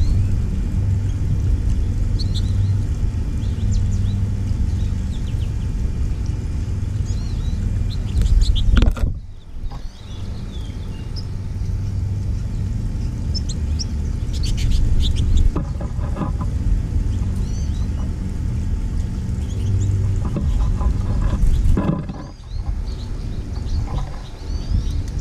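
Small birds chirping and twittering in short calls over a steady low rumble, which is the loudest sound; the rumble drops away sharply about nine seconds in and again near the end.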